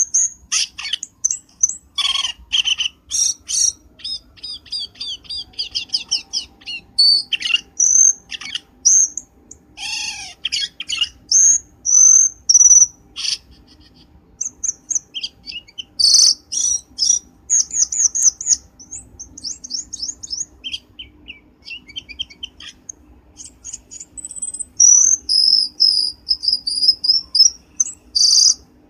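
Cucak keling bird calls played as a lure: bursts of sharp chirps and rapid trilling whistles, coming in clusters with short pauses between them.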